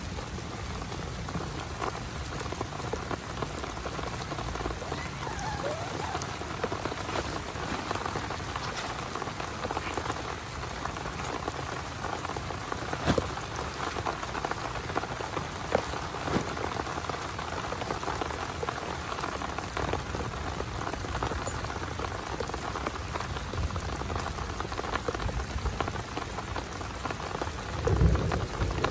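Heavy rain falling steadily, with a few sharper, louder drops in the middle. Near the end a low rumble of thunder starts.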